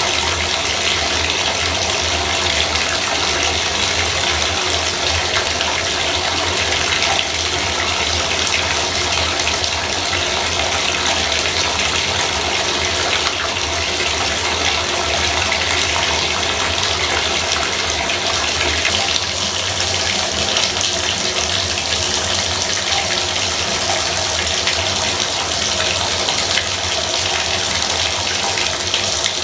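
Bathtub faucet running water, a steady, even rush without a break.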